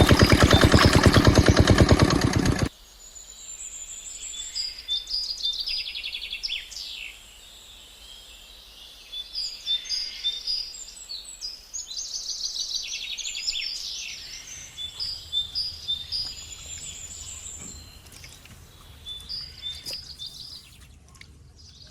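Small diesel water-pump engine running steadily, then cutting off abruptly about three seconds in. After that, birds chirp and trill repeatedly over a quiet background.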